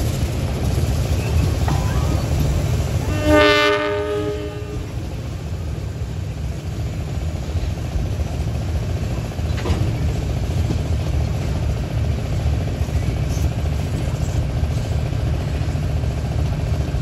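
Diesel locomotive air horn sounding one short blast, about a second and a half long, about three seconds in. Under it, and throughout, the steady low rumble of a long train of open hopper wagons rolling past.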